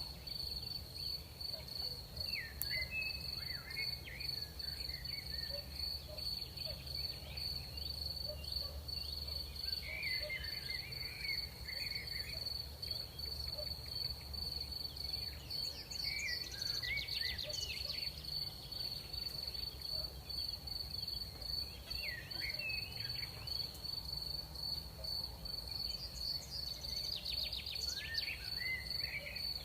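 Crickets trilling in one continuous, steady high-pitched note. Short chirping calls come in every few seconds over a low, steady background rumble.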